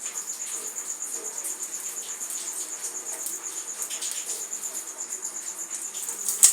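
Dry material crumbling with scattered crackles and ticks, over a steady, evenly pulsing high-pitched chirp like an insect's trill. A sharp click near the end is the loudest sound.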